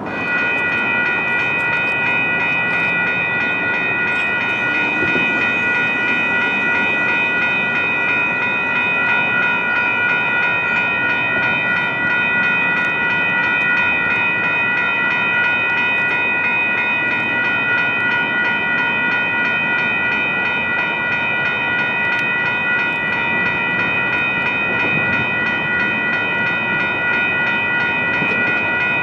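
A train passing close by, with a loud, steady high-pitched whine of several tones held unchanged over the rumble of the cars.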